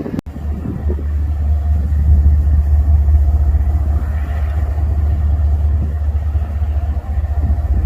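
Low, steady rumble of a diesel freight locomotive, starting after a brief cut just after the start.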